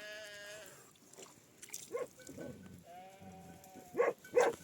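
Sheep bleating, two drawn-out calls. Near the end, two short, sharp dog barks are the loudest sounds.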